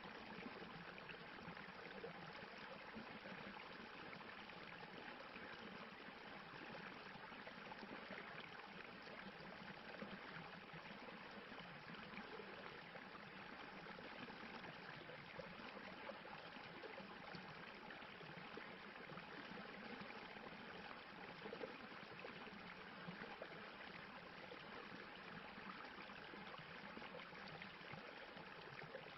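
Stream water rushing and splashing over rocks in a steady, even wash of sound.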